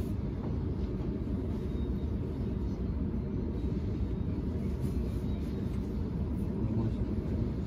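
Steady low rumble inside the carriage of a Sydney Trains Millennium (M set) electric train running between stations.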